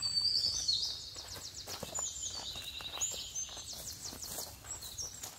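Songbirds singing high whistled notes and fast trills, loudest in the first second, with footsteps on a rocky dirt trail.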